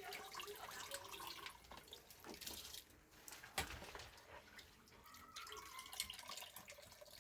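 Faint water dripping, with scattered light clicks and knocks.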